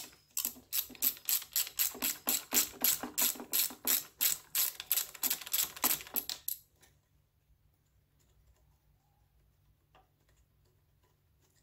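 Hand ratchet wrench clicking in a quick, even run of about four or five clicks a second as a bolt on the engine is worked loose. It stops about six and a half seconds in.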